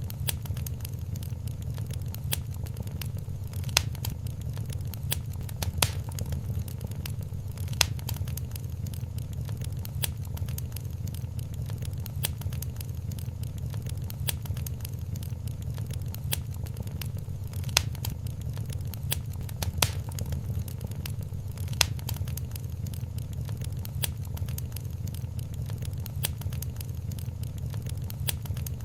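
Wood fire crackling in a fireplace: a steady low rumble of the flames with dense small crackles and a sharper pop every few seconds.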